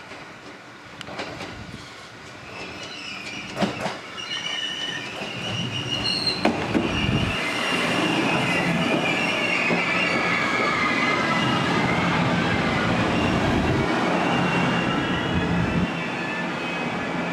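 A JR Nanao Line local train comes into the station. A few sharp clicks give way to a growing rumble with high wheel squeal, then a steady loud running noise that drops a little near the end.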